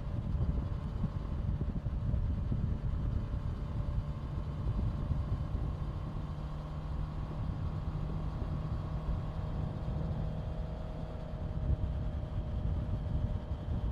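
Honda CBR650F's inline-four engine running at a fairly steady speed while riding, its pitch drifting only slightly, over a dense low rumble.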